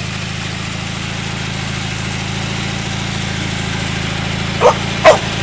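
Tractor engine running steadily, a low even hum. Near the end a dog barks two or three times.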